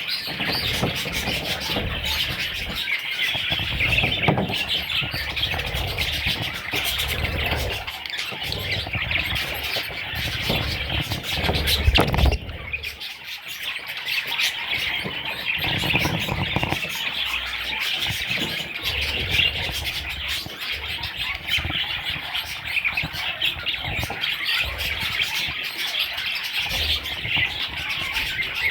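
Budgies chirping and chattering continuously in a dense, high-pitched stream, with intermittent low thuds and rumbles, the loudest about twelve seconds in.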